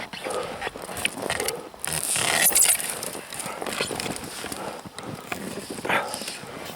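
Irregular scraping, crackling and crunching as a sawn fir trunk and its branches are levered and shifted through deep frozen snow, louder and sharper a couple of seconds in.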